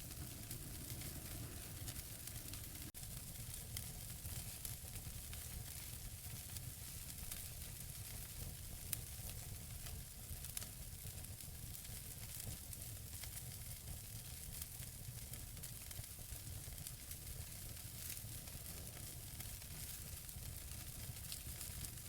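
Wood fire burning in a fireplace: a steady hiss with frequent small crackles and pops from the burning logs, a few sharper pops standing out.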